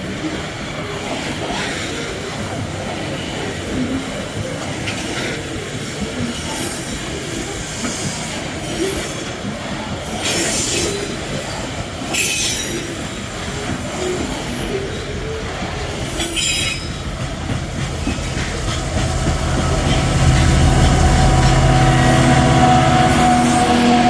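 Metre-gauge freight wagons rolling past, the wheels rumbling and clattering on the rails with short high wheel screeches every couple of seconds. In the last five seconds a low, steady engine hum grows louder.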